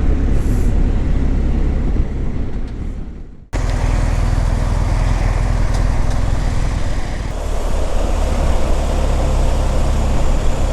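Motorcycle engine and road noise while riding through city traffic, a steady low rumble. About three and a half seconds in, it fades, cuts out and comes straight back.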